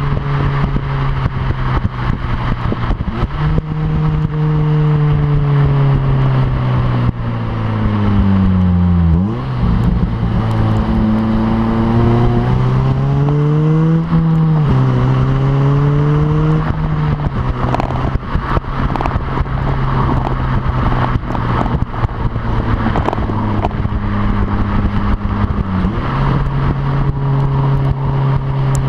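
2007 Honda Civic Si's 2.0-litre four-cylinder engine running through its stock exhaust, with a short ram intake fitted. The engine note climbs and falls with the revs, drops sharply about halfway through, then settles into a steady drone.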